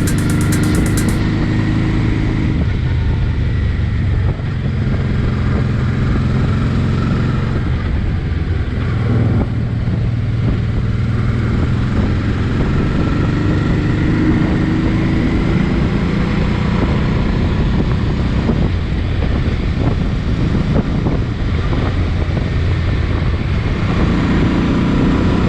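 Honda NT650V Deauville's V-twin engine running under way, its note rising and falling as the throttle and speed change, with wind noise.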